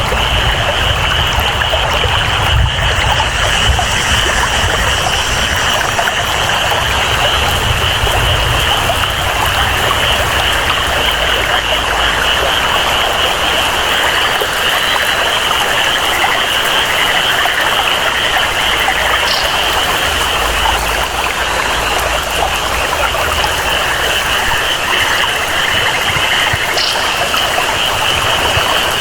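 Tropical rainforest ambience: steady rain and flowing water, with a continuous high-pitched chorus of jungle frogs or insects layered over it.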